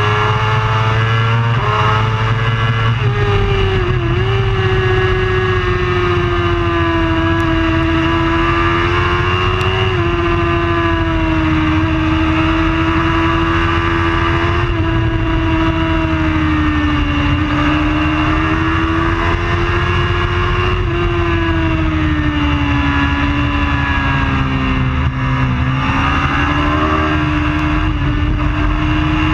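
Racing superbike engine running hard at high revs, one continuous note whose pitch climbs and sags with the throttle and drops sharply several times.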